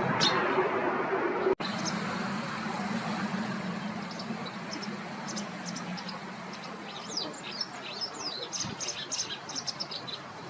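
White wagtail calling in short, sharp high chirps. They are scattered at first, then come in a quick run near the end, over a steady background hiss and low hum.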